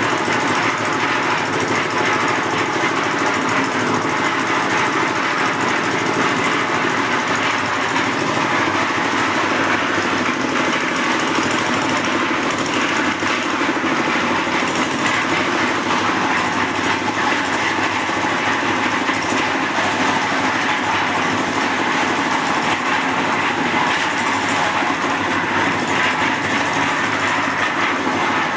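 One-bag concrete mixer running, a steady, unbroken mechanical noise that holds the same level throughout.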